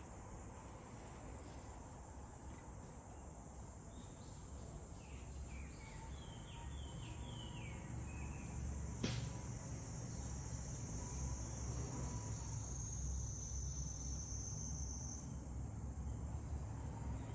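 A steady, high-pitched chorus of insects, with a few short falling chirps about a third of the way in and a single sharp click near the middle.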